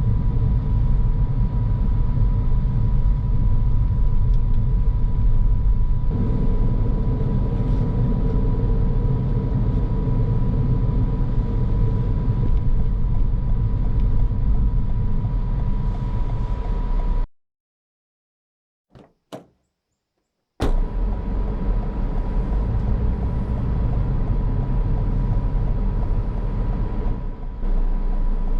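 A car driving: a steady low rumble of engine and road noise with a thin steady high tone through it. About two thirds of the way in it cuts to silence for about three seconds, with a couple of faint clicks, then the rumble returns.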